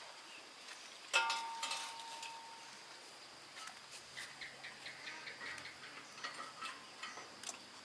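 A single metal clank, ringing briefly, about a second in, followed by light irregular ticks and taps.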